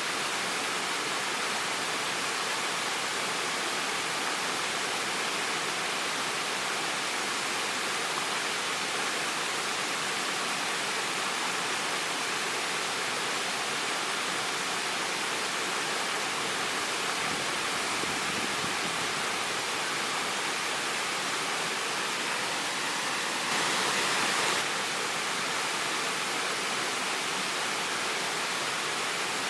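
Waterfall: water falling and rushing in a steady, even roar, briefly a little louder for about a second near the end.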